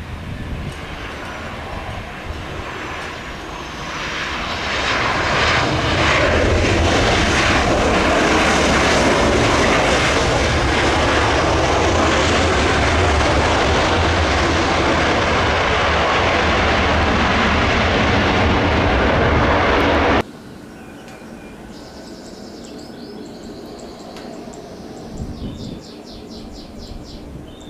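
Jet airliner's engines passing close, the noise swelling over a couple of seconds and then holding loud and steady. It cuts off abruptly about twenty seconds in, leaving quieter outdoor background with faint high chirps.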